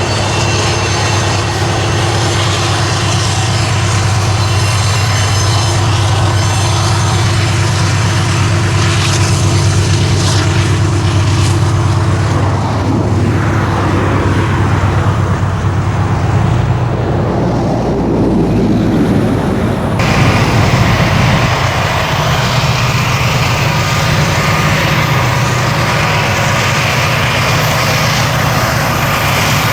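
Diesel freight locomotives running with a steady low engine drone and rail noise. The sound changes abruptly about two-thirds of the way through and turns brighter.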